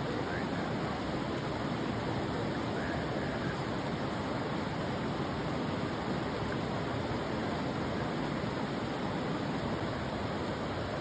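Steady rushing of a river's flowing water mixed with falling rain, an even noise with no distinct events.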